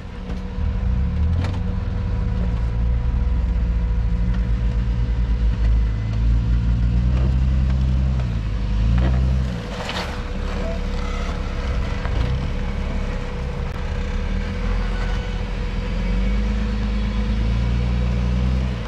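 Jeep engine running at low revs, its pitch rising and falling as it is worked on and off the throttle, with a thin steady whine and an occasional knock.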